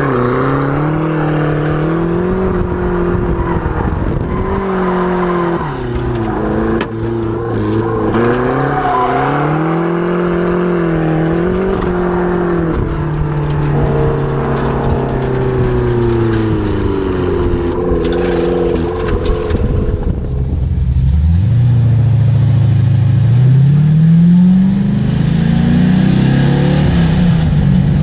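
Turbocharged Mazda Miata's engine revving up and down over and over as it is driven hard in a drift, heard from inside the open cockpit. About two-thirds of the way through it gives way to a deeper engine, the V8-swapped Mazda RX-7, rising steadily in pitch as it accelerates.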